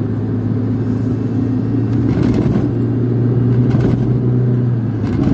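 Car engine and road noise heard from inside the cabin while driving: a steady low hum whose pitch rises a little from about two seconds in, as the car speeds up, and drops again near the end.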